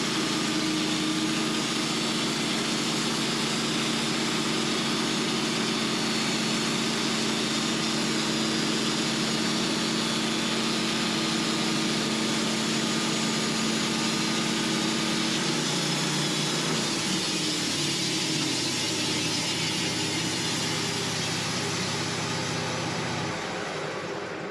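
Engine-driven sawmill running steadily as its blade saws a flat cut along the top of a spruce log. The machine's pitch shifts about 16 seconds in, and the sound eases shortly before the end as the cut finishes.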